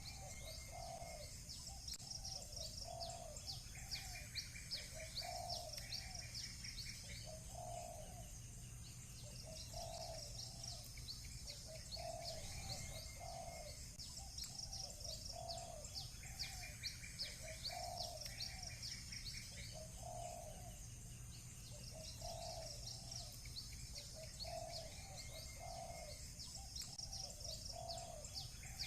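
Birds chirping in a busy chorus, with a dove cooing over and over and short trills now and then, above a steady low hum.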